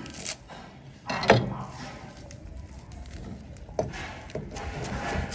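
A few knocks and clicks, such as objects being handled in a kitchen: one loud knock about a second in, then lighter knocks and a run of sharp clicks near the end.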